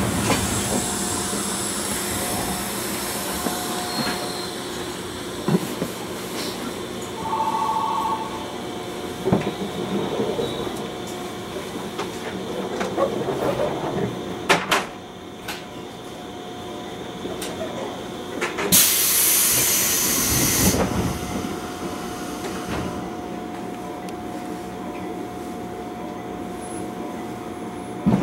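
Electric train standing at a platform: steady hum and a thin steady whine from its onboard equipment, with a few clicks and knocks. A short electronic beep sounds about seven seconds in, and a loud burst of hissing compressed air lasts about two seconds later on.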